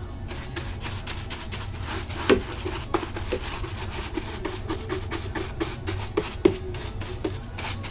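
Pieces of pallet wood being handled and fitted: a string of light wooden knocks, taps and rubbing, with two louder knocks, one about two seconds in and one about six and a half seconds in.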